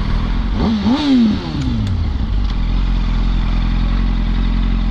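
Yamaha R1 sport bike's inline-four engine given one quick rev about half a second in, its pitch rising and falling over about a second, then idling steadily.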